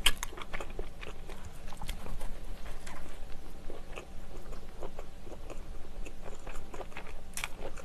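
Close-miked chewing of a mouthful of soft sausage-onion bread, with small, irregular wet mouth clicks and smacks throughout and a sharper click near the end.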